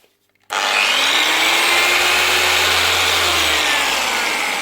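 DAS6 dual-action polisher's electric motor switched on about half a second in, its pitch rising as it spins up, running steadily, then switched off near the end and starting to wind down. Its rotary bearings have failed, leaving the spindle flapping.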